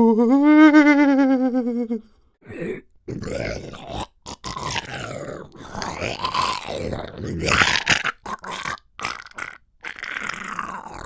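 A man's voice doing monster sound effects: first a held, wavering moan, then about two seconds in a run of rough, raspy growls and grunts broken by short pauses.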